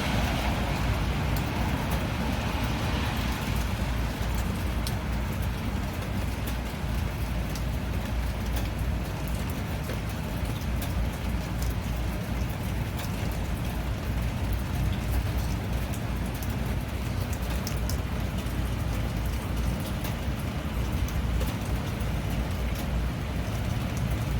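Steady rain, with a deep low rumble underneath and scattered sharp ticks of drops striking close by.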